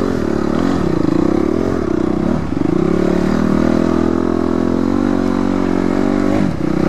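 Dirt bike engine running under way, its pitch dipping and climbing again three times as the throttle is eased and opened.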